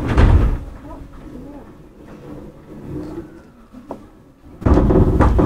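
Interior sound of a Tokyu 9020 series commuter train. A loud stretch at the start dies down to a quiet low rumble, then a second loud burst of noise comes in about four and a half seconds in and lasts nearly a second.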